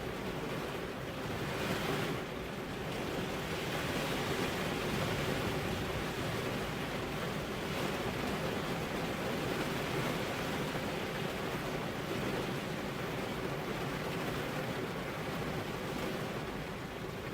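Heavy rain falling: a steady rushing hiss that swells a little about two seconds in and again a few seconds later.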